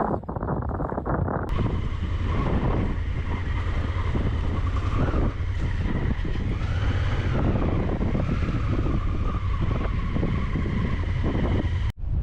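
A vehicle engine droning steadily under heavy wind buffeting on the microphone, with an abrupt change in the sound about a second and a half in and a brief dropout near the end.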